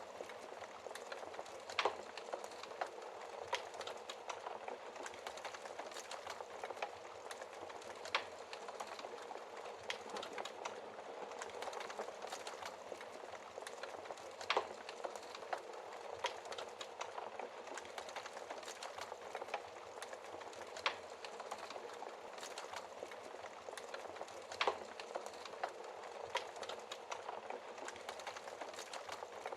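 Wood fire in a fireplace crackling steadily, with frequent small ticks and a sharp louder pop every few seconds.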